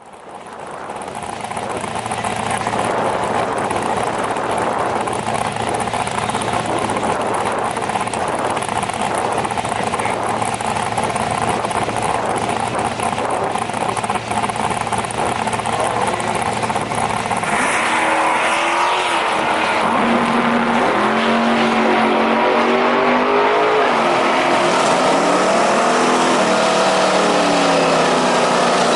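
Drag-racing vehicle engines: a steady running noise with a low hum, then from about two-thirds in, wavering engine tones that rise and fall.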